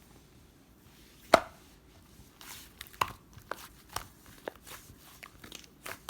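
Scattered sharp taps and clicks on a hard surface: one loud click about a second in, then a loose run of lighter taps from about three seconds in.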